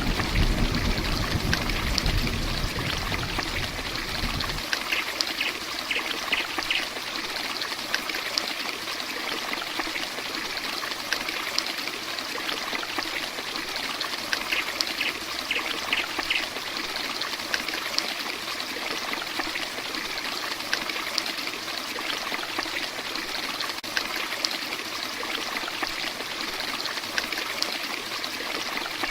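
Heavy rain falling steadily, a dense hiss with splashing and trickling water. A deep low rumble at the start stops abruptly about four and a half seconds in.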